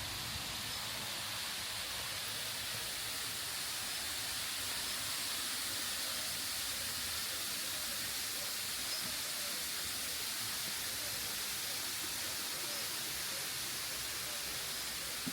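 Steady rush of falling water from a waterfall, an even hiss that does not let up.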